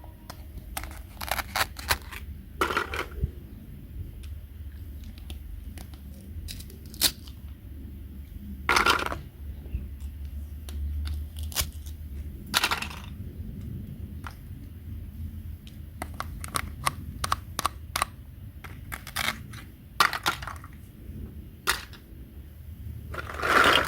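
Small plastic toy pieces being handled: scattered light clicks and taps, with a few longer rustling scrapes, over a steady low hum.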